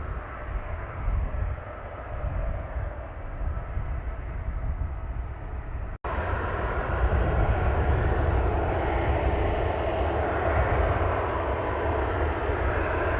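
Jet airliner engines running, with a strong low rumble from wind on the microphone. About six seconds in the sound breaks off for an instant, and after that the engine noise is louder and steady.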